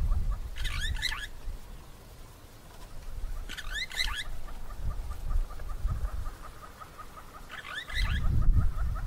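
Birds calling: a burst of rapid, rising chattering notes comes three times, a few seconds apart, over a steady, quick run of short chirps. A low rumble sits underneath, strongest at the start and again near the end.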